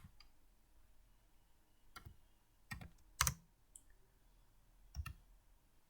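Computer keyboard keys pressed one at a time: about six sparse, irregular clicks, the loudest a little past three seconds in.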